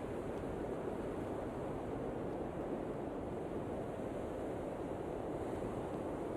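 Snowstorm wind blowing steadily, an even noise heaviest in the low-middle range with no separate sounds in it.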